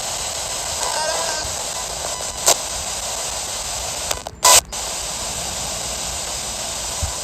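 SBox spirit box sweeping the FM band: steady radio static hiss, with a sharp click about two and a half seconds in and a brief cut-out then a loud burst of noise about four and a half seconds in.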